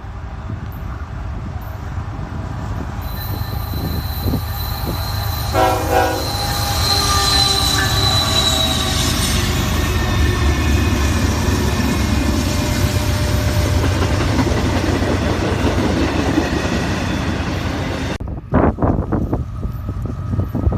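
Freight train passing, with a steady low rumble from the locomotives and cars, a high wheel squeal over the first half, and a short horn blast about six seconds in.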